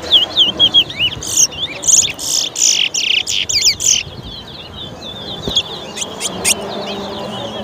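Towa-towa (chestnut-bellied seed finch) singing a fast run of whistled, gliding notes. The song is loudest in the first half and breaks off about four seconds in, followed by a few sharp single notes and softer twittering.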